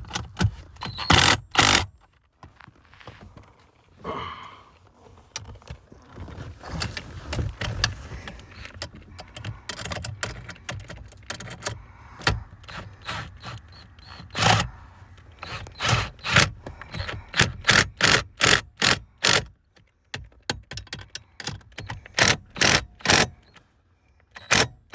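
Irregular sharp clicks, knocks and scraping of hand tools and metal fasteners against the car's blower motor housing under the dash as it is bolted back in, at times coming two or three a second.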